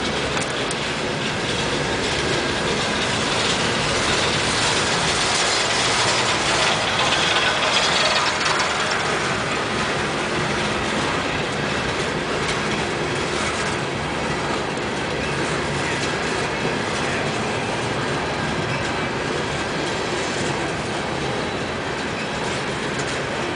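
Loaded coal gondola cars of a CSX freight train rolling past, a steady rumble and clatter of steel wheels on the rails. It swells a little about five to eight seconds in.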